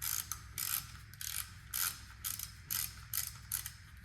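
Hand socket ratchet wrench clicking in repeated short back-strokes, about two a second, as a bolt is worked.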